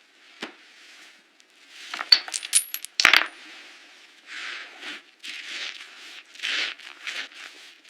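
Metallic clinking with a brief high ringing, a cluster of sharp clicks about two to three seconds in, followed by a run of short crunching or rustling sounds about every half second.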